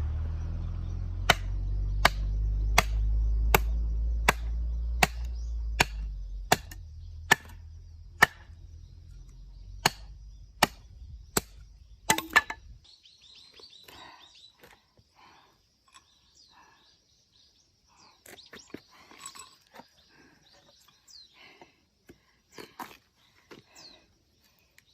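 Firewood being struck over and over with a blade in a steady rhythm: sharp knocks about every 0.7 s for the first half, over a low rumble that stops about halfway. After that come only faint, scattered clicks and crackles.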